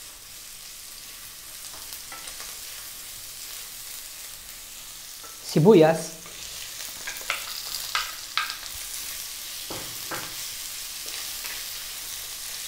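Minced garlic and ginger with a chicken stock cube sizzling in hot oil in a wok, stirred with a wooden spatula. Sliced red onions go in about halfway through. After that the sizzle grows a little and a few knocks of the spatula on the pan are heard.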